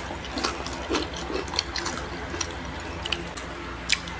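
Close-up chewing and crunching of crispy fried food, heard as irregular short crackles and clicks, over a steady low hum.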